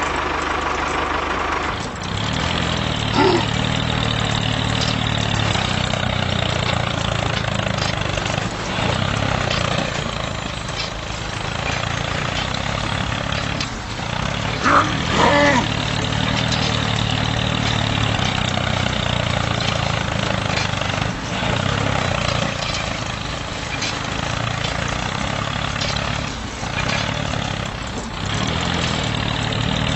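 Small engine of a DIY mini tractor running steadily just after starting, its low hum holding an even pitch. It briefly dips in level a few times.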